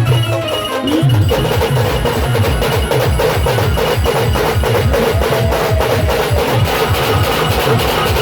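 Loud band music driven by a fast, even beat of deep drum hits with percussion over it. The beat drops out briefly just under a second in, then picks up again.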